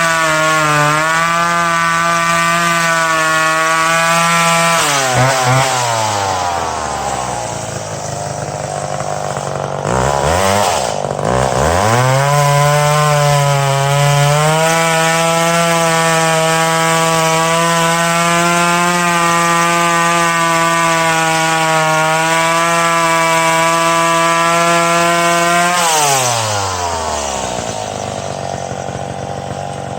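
Chainsaw running at high speed cutting dead ash wood, dropping to idle about five seconds in, revved back up about twelve seconds in and held high under cut, then dropping back to idle near the end.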